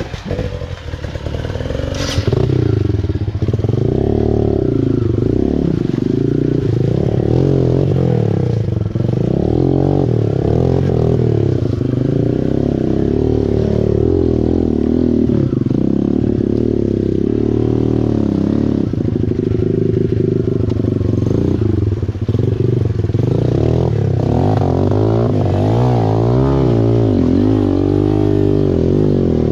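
Small dirt bike engine running under constantly changing throttle, its pitch rising and falling, picking up and getting louder about two seconds in.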